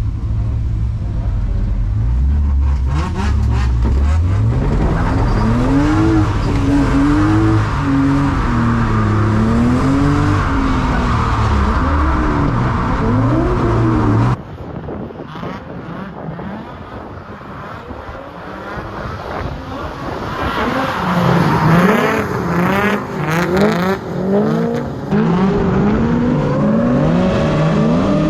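Drift car engine revving hard at high rpm, the pitch swinging up and down again and again as the car slides, with some tyre squeal. About halfway through the sound cuts abruptly to a quieter, lower level, then the revving builds again and swings up and down near the end.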